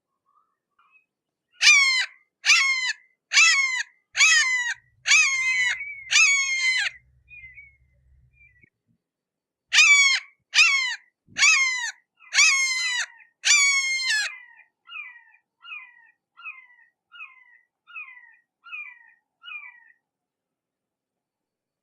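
A hawk calling: a series of descending screams repeated under a second apart, in two loud runs of about six and five calls, then a run of about eight fainter, shorter calls.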